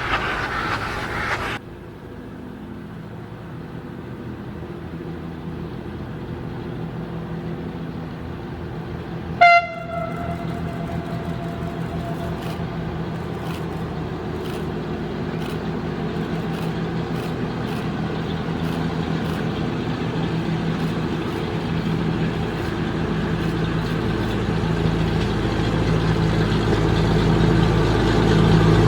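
A diesel train's engine drones steadily, growing louder as it approaches. About a third of the way in it gives one short horn toot.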